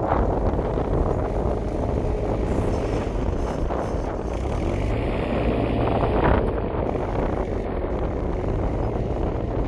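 Diesel engine of farm machinery running steadily with a continuous low rumble.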